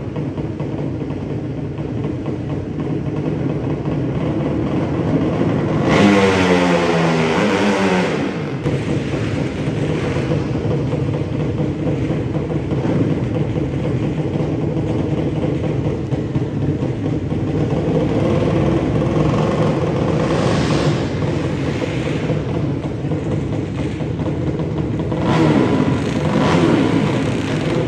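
Drag-racing motorcycle engines running and revving. The loudest moment comes about six seconds in, where one engine's pitch falls away over about two seconds.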